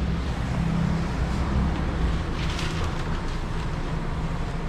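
Steady low hum of a running vehicle engine, with a faint short clatter a little past halfway.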